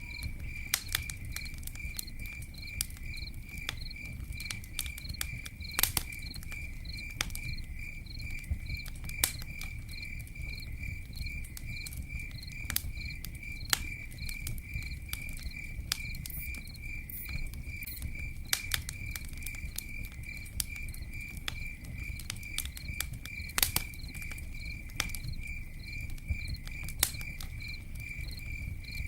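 Campfire crackling with sharp pops, two of them louder about 6 and 24 seconds in, over a low rumble of flames, while a cricket chirps in a steady, evenly repeating high pulse.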